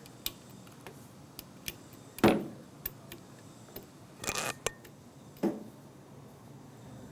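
Scattered clicks and knocks from handling, the loudest a knock a little over two seconds in that rings briefly, with a short rustling scrape a little after four seconds and another knock about a second later.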